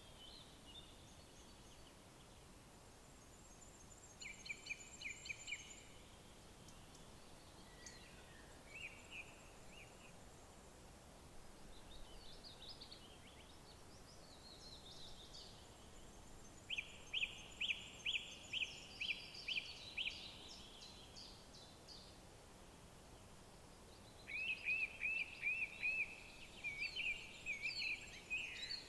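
Songbirds singing in separate phrases of quickly repeated notes over a faint steady hiss. The loudest phrase is a run of about eight evenly spaced notes a little past halfway, and another burst of song comes near the end.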